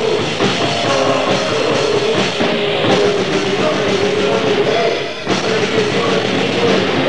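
Loud, distorted grindcore played by a band: fast, busy drum kit under heavily distorted guitar, with a brief break about five seconds in.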